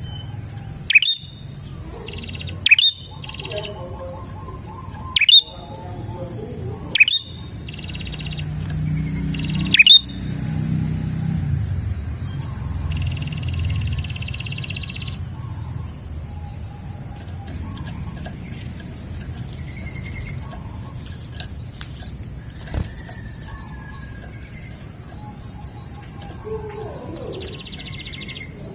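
Prinia (prenjak) calling: five loud, sharp chirps in the first ten seconds, then quieter buzzy trilled phrases, over a steady high-pitched drone.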